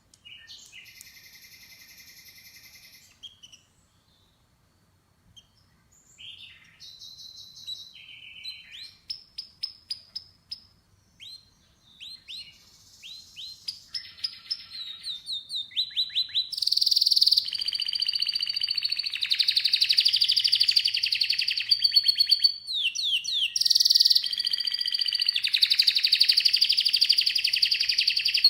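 Domestic canary singing: a short trill, a pause of about two seconds, then phrases of repeated notes and quick falling sweeps that build into long, loud, rapid rolling trills over the last ten seconds.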